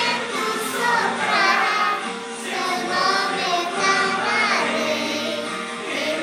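Music: a sung song with voices carrying a melody over steady accompaniment.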